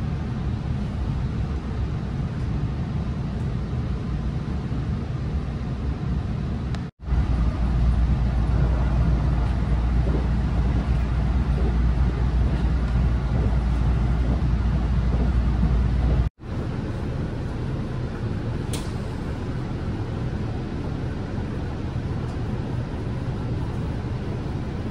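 Running noise inside a local electric train under way: a steady rush with a deep rumble. It cuts out abruptly twice, about seven and sixteen seconds in, and the stretch between has a heavier low rumble.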